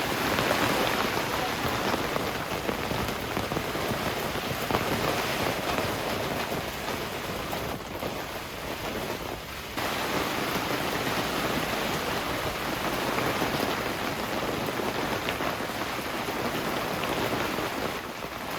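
Heavy rain pouring steadily, with a brief dip in intensity about halfway through before it returns at full strength.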